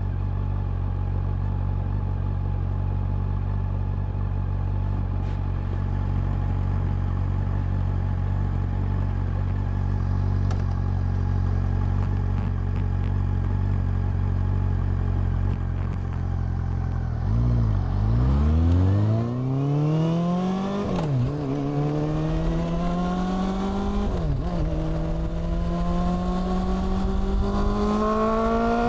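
Honda CB400 Super Four's inline-four engine and exhaust idling steadily, then, after about seventeen seconds, pulling away and revving up through the gears. Each of the two upshifts is a brief dip in pitch before the next climb.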